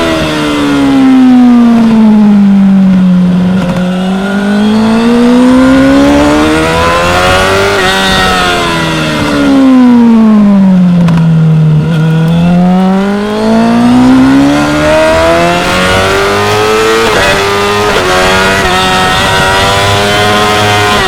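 2016 Yamaha R6's 599 cc inline-four engine at high revs on track. The engine note twice drops smoothly for a few seconds, as it slows for a corner, then climbs again under throttle, with short steps in pitch where it shifts gear.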